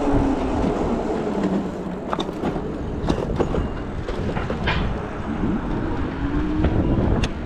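E-bikes riding along a road: steady wind and road rumble, with a motor whine that falls in pitch early on and rises again near the end. A few sharp rattling clicks come about two, three and seven seconds in.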